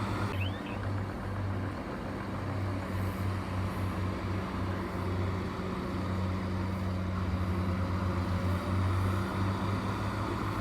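Diesel engine of heavy construction machinery running steadily with a low hum.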